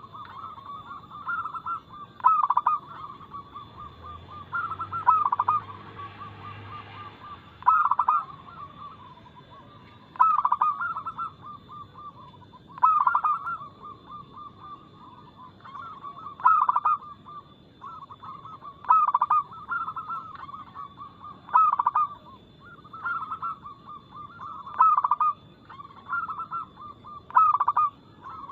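Zebra dove (perkutut) cooing over and over. Each cooing phrase starts with a louder accented note, and the phrases come about every two and a half to three seconds.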